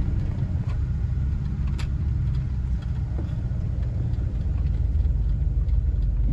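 Steady low rumble of a vehicle's engine and road noise heard from inside the cab while driving, with a single faint click about two seconds in.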